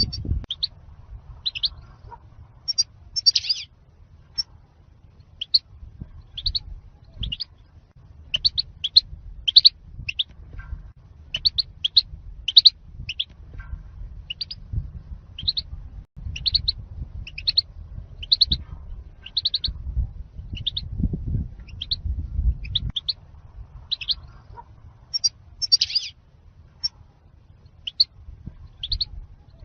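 European goldfinch giving its short, high 'zalzal' call notes, repeated about one to two times a second, the call used to lure wild goldfinches and to teach it to cage birds. A low rumble runs beneath.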